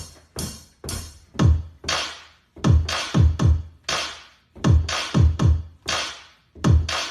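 Electronic drum-machine beat: deep kicks that drop in pitch, mixed with sharp snare or clap hits in an uneven, stop-start pattern, with no melody over it.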